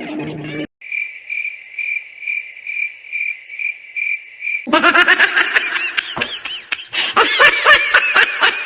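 Cricket-chirp sound effect: a high, even chirping pulse about twice a second for roughly four seconds, the stock cue for an awkward silence. It is followed by a dense, rapidly warbling high-pitched sound.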